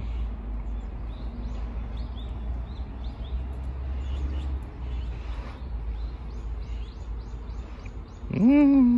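Small birds chirping faintly over a steady low outdoor rumble. Near the end comes a short, louder rising vocal sound.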